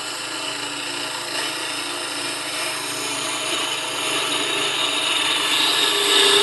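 Bowl gouge cutting a hard maple blank spinning on a wood lathe: a continuous shearing hiss of the cut over the lathe's steady running, growing a little louder toward the end.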